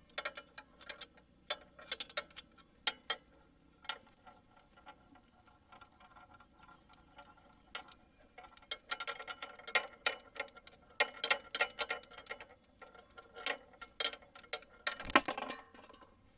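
Small metallic clicks and clinks of a spanner working the engine-oil drain bolt under a Bajaj Avenger 220's engine, coming in irregular clusters, with one louder metal clank about fifteen seconds in.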